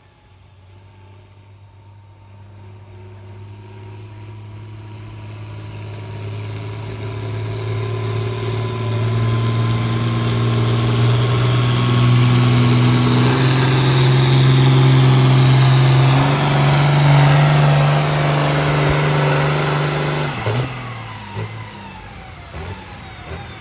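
A pulling vehicle's engine at full power hauling the sled down the track. It grows steadily louder as it comes closer, and its pitch steps up about two-thirds of the way through. The throttle is cut about 20 seconds in, and a high whine falls away as the engine winds down.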